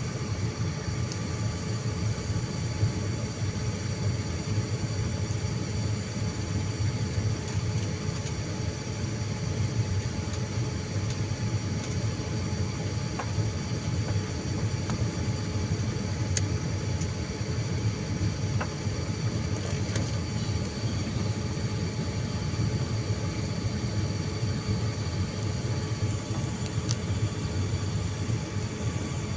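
Steady airliner cabin noise, a low engine drone and rush of air, with a few faint steady whining tones over it.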